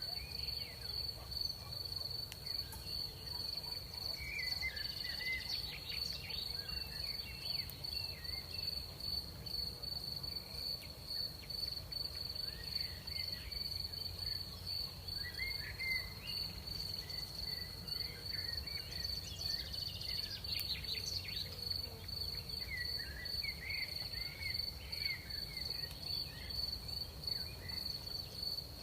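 Crickets trilling steadily at night in one continuous high-pitched band, with scattered short chirping calls lower down and a low steady rumble beneath.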